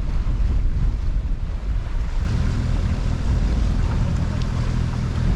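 Wind buffeting the microphone aboard a moving sailboat, over the rush of water. About two seconds in, a steady low drone from the boat's engine comes in beneath the wind.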